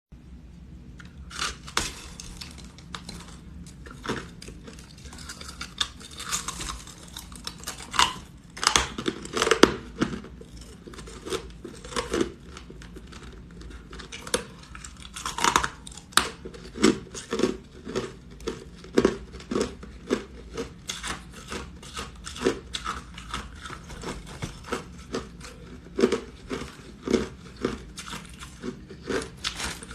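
Ice being bitten and chewed close to the microphone: a dense, irregular run of sharp crunches and cracks, a few much louder than the rest.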